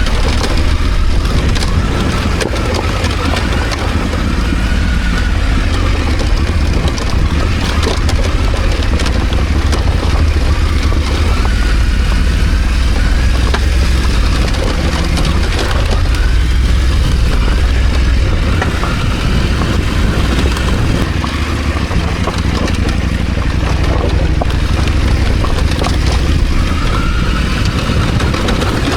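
KTM 890 Adventure's parallel-twin engine running steadily as the motorcycle is ridden off-road, a continuous low rumble with a haze of wind and riding noise and scattered short knocks.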